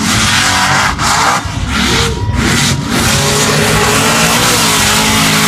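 Mud bog truck on tractor tires at full throttle through a mud pit: the engine revs hard under a loud hiss of spraying mud and spinning tires, with the revs dipping briefly about a second in and again around two seconds.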